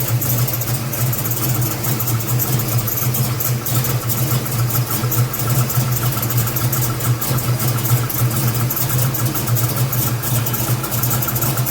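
Big-block V8 with a lumpy cam idling, its note loping and pulsing unevenly.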